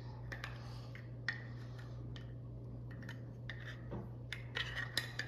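Light clicks and taps of plastic model-airplane parts being handled and pressed together, scattered and irregular, over a steady low hum.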